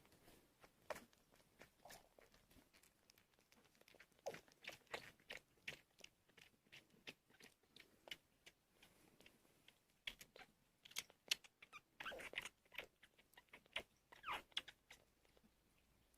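Sphynx kittens suckling from a feeding bottle: soft, irregular wet clicks and smacks of sucking, quicker and more clustered in places.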